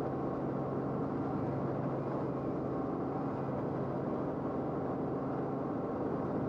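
Steady engine drone heard from inside an aircraft in flight, with a constant low hum and no change in pitch.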